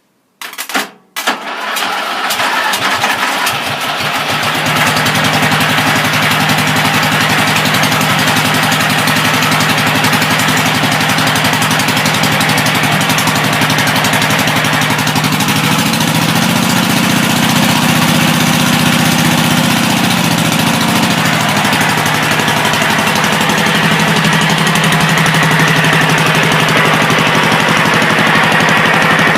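Lawn tractor's small engine on its first start after reassembly: a brief crank that catches about a second in, then running steadily. Its speed rises and falls back once about two-thirds of the way through.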